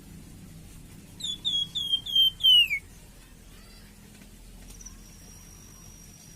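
A flamboyan songbird calling: a quick run of about five clear, down-slurred whistled notes, the last one longer and sliding lower. A faint steady high-pitched tone follows in the background.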